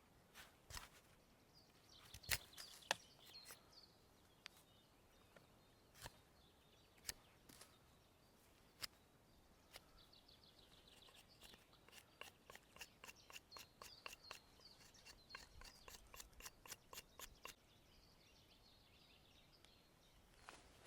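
Faint birdsong, with scattered sharp clicks and, midway, a run of quick, fairly even taps at about three or four a second.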